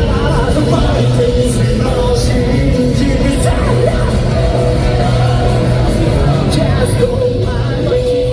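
Live J-rock band playing loud and steady, with singing and shouted vocals in a large hall.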